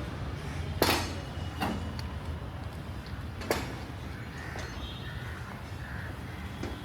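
Street ambience with a steady low traffic hum, broken by three sharp knocks or clacks, the first and loudest about a second in, the others near a second and a half and three and a half seconds in.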